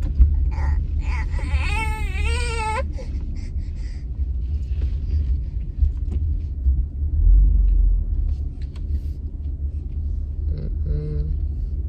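Low, steady rumble inside a car cabin as the car reverses slowly into a parking space. About a second in, a person gives a brief, high-pitched, wavering cry.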